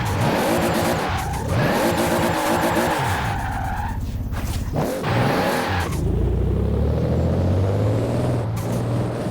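Toyota Supra RZ's straight-six with a big single-turbo conversion, pulling hard with rising revs twice, then a rushing hiss from the turbo as the throttle closes. After that the engine settles into a low, steady drone.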